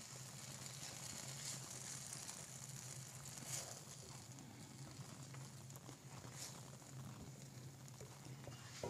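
Faint sizzling and crackling of semolina halwa cooking in a non-stick pan while it is stirred with a wooden spoon. A few soft spoon strokes stand out over a steady low hum.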